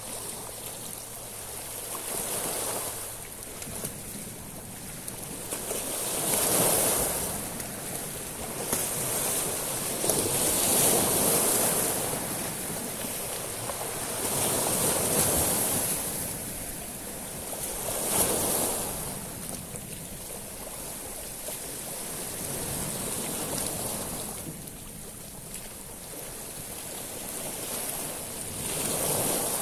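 Sea waves washing in and out over a shingle beach of small stones. The surf swells and fades every four seconds or so, with a high hiss at each surge and a quieter stretch about two-thirds of the way through.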